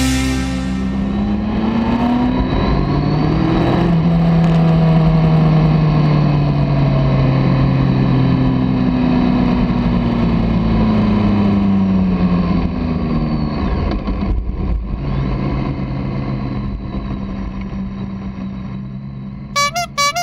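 BMW K1200R motorcycle's inline-four engine under way, the revs climbing over the first few seconds, holding, then easing off and settling to a steady pitch, over a low wind rumble.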